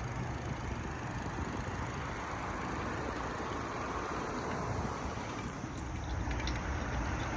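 Steady street traffic noise of passing cars, heard while riding a bicycle, with a few faint ticks near the end.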